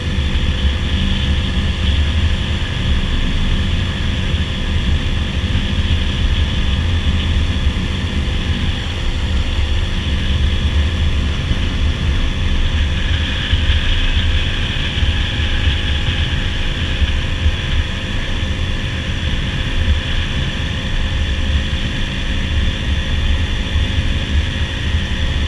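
Dirt bike engine running at a steady cruising speed, with heavy wind rumble on the microphone.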